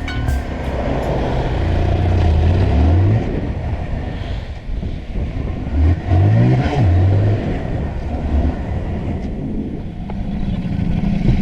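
A motor vehicle engine under way with road and wind noise; its pitch rises twice as it accelerates, about two seconds in and again about six seconds in.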